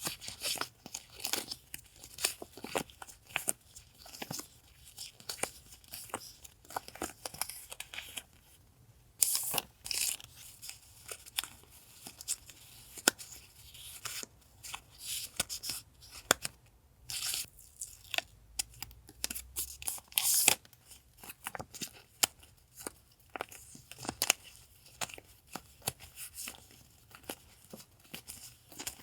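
Paper goods and plastic sticker packaging being handled: continual rustling and crinkling with short tearing or peeling sounds, and several louder rips scattered through.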